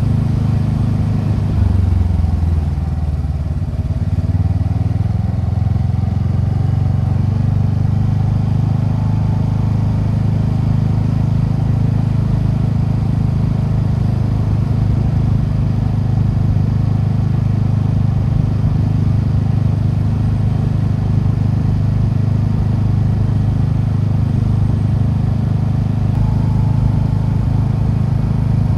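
TVS Ntorq 125 scooter's single-cylinder engine through its stock exhaust while riding. The engine note drops about two seconds in, climbs back over the next few seconds, then holds steady at cruising speed.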